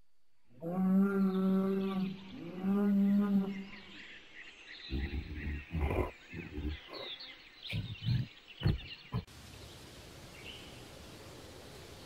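A cow mooing twice, two steady drawn-out moos of about a second and a half each, followed by a string of short, irregular low thumps.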